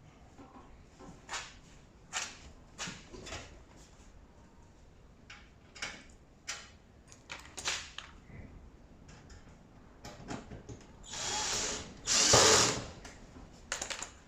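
Scattered clicks and knocks of parts and tools being handled, then a power drill running in two bursts of about a second each near the end, the second louder.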